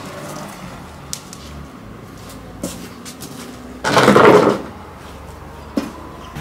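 Handling noises: a few light knocks, and a short, loud scrape about four seconds in, as something is moved and set in place.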